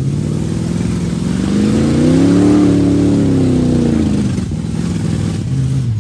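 Lifted car's engine revving hard while its spinning tyres churn through deep mud. The revs climb to a peak about halfway through, fall back, then start climbing again at the end.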